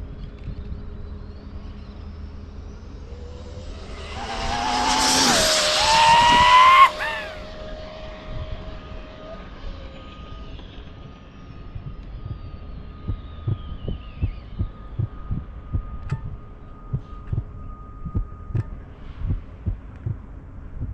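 Dual-motor brushless electric RC speed-run car making a full-speed pass. The motor whine climbs in pitch and loudness for about three seconds and peaks about seven seconds in. Its pitch then drops sharply as the car goes by and fades off down the road. A series of soft thumps follows in the last third.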